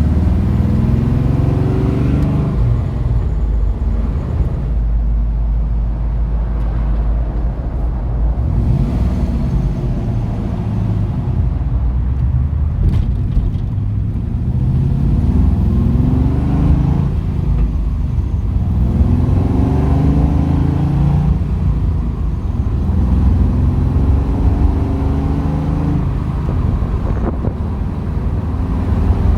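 LS2 6.0-litre V8 in a 1973 Chevy Camaro running under way, its pitch rising in several sweeps as the car accelerates and easing back in between.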